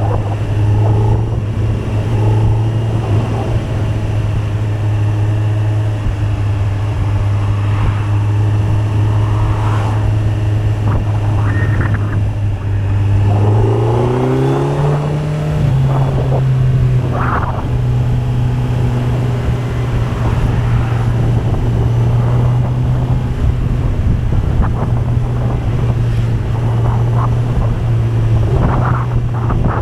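Kawasaki Z900's 948 cc inline-four engine running under way with a steady, even note. About halfway through it revs up briefly to a higher pitch, then settles back to the same steady note.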